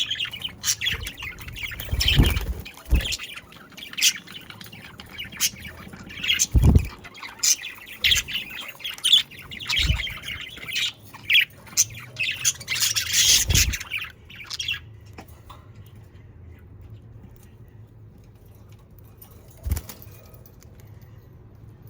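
A flock of budgerigars chirping and squawking, with a few low thumps among the calls. About two-thirds of the way through the calls stop, leaving a faint low hum and a single knock near the end.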